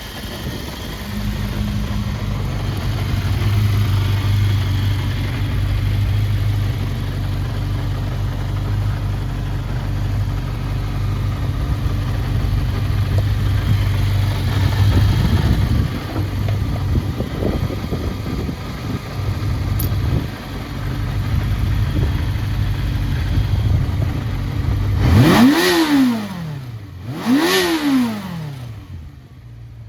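1983 Suzuki GSX400F's inline-four engine idling steadily through an aftermarket muffler, then blipped twice near the end, the revs rising quickly and falling straight back to idle each time.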